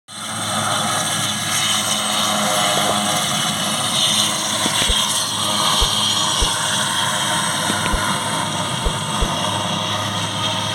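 Airbus AS 532AL Cougar twin-turbine helicopter running steadily, its rotor and turbines giving a loud, even noise with a low steady hum, and a few brief low thumps at irregular moments.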